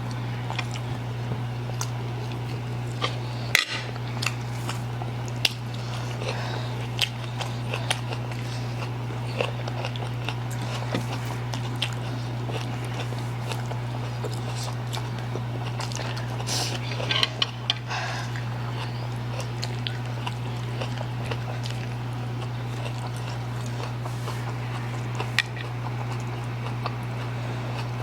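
Close-miked eating sounds of spicy instant noodles: scattered short clicks of utensils against the bowl, with chewing and slurping, over a steady low hum.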